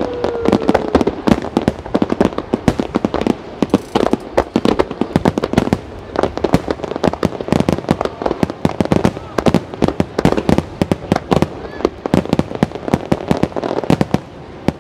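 Wide starmine fireworks barrage: a dense, rapid salvo of shell bursts and crackling reports, several bangs a second, thinning out near the end.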